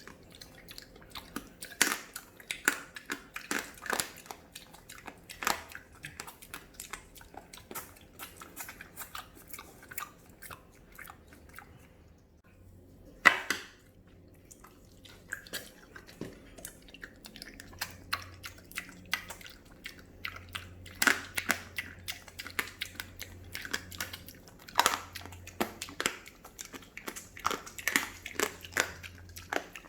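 A pig chewing: an irregular run of short wet clicks from its jaws and mouth, pausing briefly about twelve seconds in and resuming with one sharp louder click.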